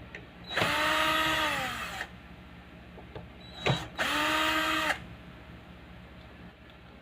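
A small electric power tool, like a drill or driver, run twice in short bursts of about a second each, its motor whine dropping in pitch as it is let off. A steady low hum runs underneath.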